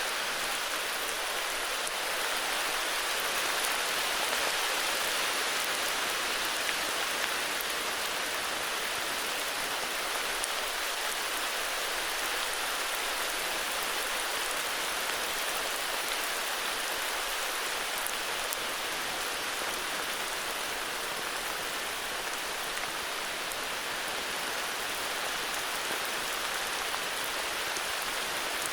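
Steady heavy rain falling, an even hiss of drops with faint scattered patters.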